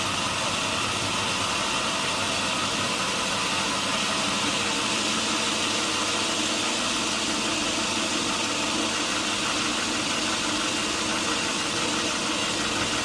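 Sawmill machinery running steadily, a constant engine-like drone and hiss with no change in pitch or level.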